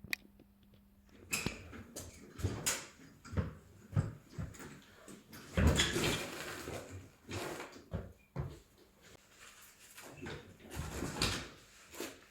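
Irregular clanks and knocks of tools and metal parts being handled while the half-track's middle wheels and swingarms are taken apart, with a longer rattling stretch about halfway through.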